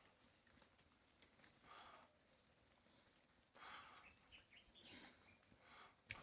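Quiet outdoor ambience: a faint high chirp repeating evenly two or three times a second, with a few soft rustling swishes.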